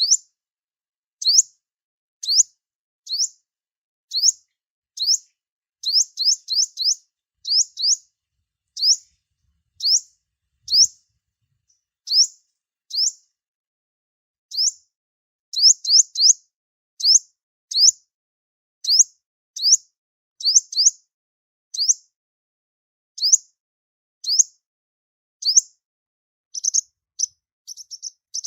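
Sunbird (the 'five-colour sunbird' used as a trapping lure) calling: short, high chirps that sweep upward, about one or two a second, sometimes in quick runs of three or four, with a brief buzzy trill near the end.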